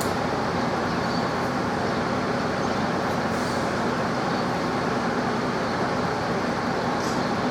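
A vehicle engine running steadily: a continuous, even rumble with a low hum and no change in level.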